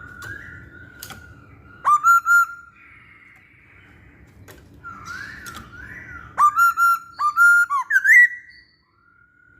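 Masked laughingthrush (Hong Kong poksay) singing: soft wavering whistles throughout, broken by three loud, sharp whistled notes about two seconds in and a longer run of loud, rising whistled notes from about six and a half to eight seconds.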